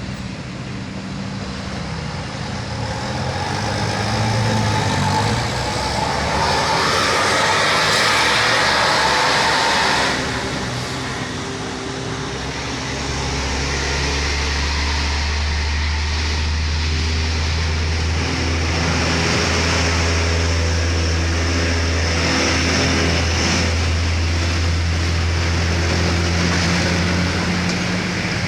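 Road traffic at a bend: a vehicle passes loudly in the first third, its noise swelling and then dropping away. Then a heavy diesel engine, bus or truck, runs with a deep steady drone through the rest.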